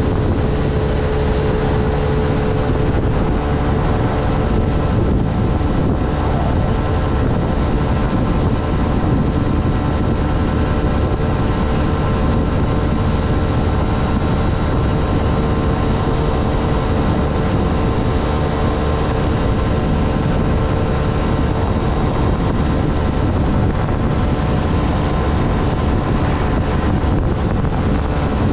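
Honda Navi's small air-cooled single-cylinder engine running at a steady cruising speed, with wind and road noise over it and a steady whine.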